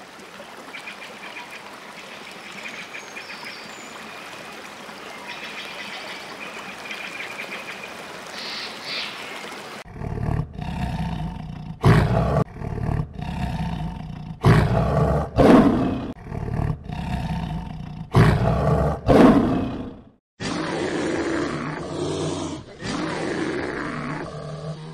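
Lion roaring: a bout of about seven loud, deep roars and grunts in the middle of the stretch. Before it comes a steady hiss with a few faint high calls, and after it, following a sudden cut, a steadier lower sound.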